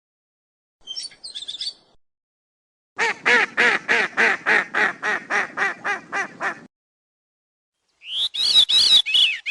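Three short sound-effect clips one after another. First comes a brief burst of high chirps. Then a quick, even run of about sixteen quack-like calls, roughly four a second, lasts nearly four seconds. Last is a high, warbling bird-like whistle.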